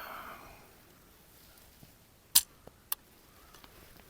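Handling noise from a phone or camera being picked up and repositioned: a short breathy rustle at first, then two sharp clicks about half a second apart, with a faint tick between them.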